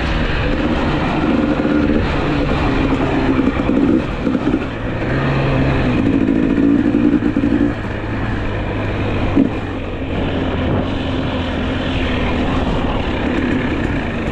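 Two-stroke GasGas EC300 enduro motorcycle engine running under way, its revs rising and falling as the throttle is worked.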